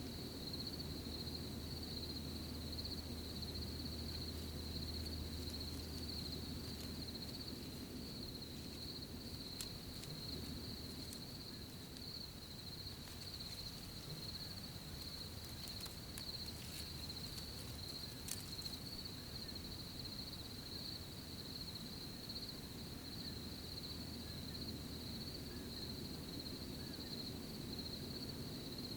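Crickets chirping in a steady, unbroken high trill over a low rumble, with a few brief ticks about a third and again about three fifths of the way through.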